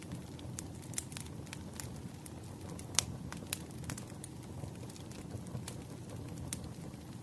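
Campfire crackling: a steady low rush of burning wood with irregular sharp pops and snaps, the loudest about three seconds in.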